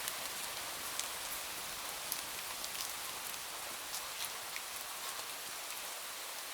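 Steady rain hissing, with short sharp ticks and crackles about once a second.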